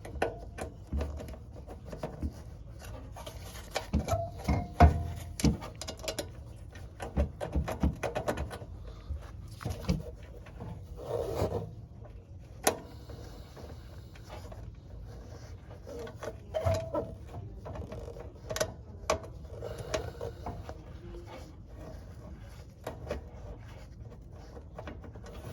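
Hands working on metal parts with tools: scattered clicks, knocks and short scrapes and rubs, irregular throughout, with a few sharper knocks among them.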